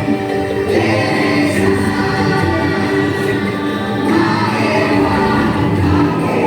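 Music with a choir singing, many voices holding notes together over an accompaniment.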